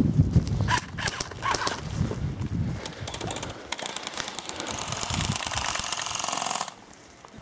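Rustling and thumping movement through brush, then about a second and a half in it gives way to a thrown pyrotechnic device hissing and crackling for about three seconds before it cuts off suddenly.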